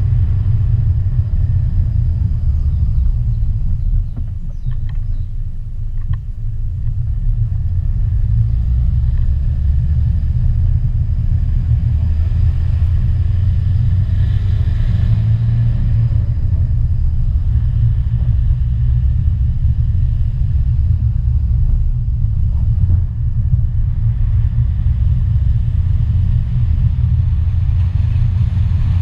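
Steady low rumble of a car driving along a road, engine and road noise heard from on or in the vehicle, with a few faint clicks and a brief drop in level about five seconds in.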